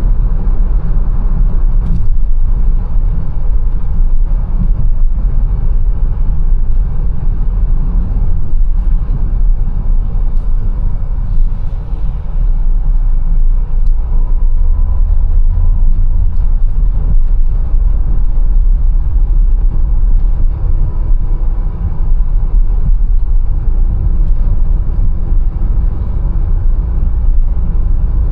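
Mercedes-Benz A180 on the move: a steady, loud low rumble of engine and road noise, with a few faint ticks and a faint hum in the second half.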